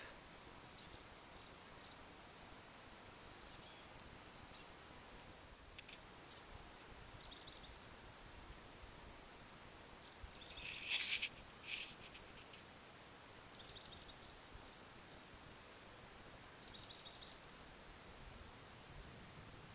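Birds chirping in short, high repeated phrases over faint outdoor background noise, with two louder sharp sounds close together about eleven seconds in.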